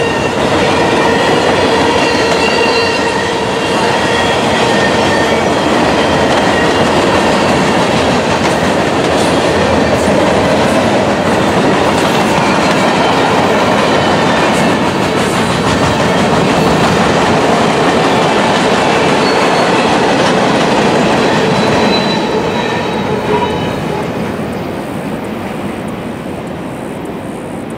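Freight cars of a passing CSX manifest train (boxcars, a tank car, flatcars loaded with wooden poles) rolling by, the steel wheels rattling on the rails with steady high ringing tones. The sound fades from about 22 seconds in as the end of the train goes past.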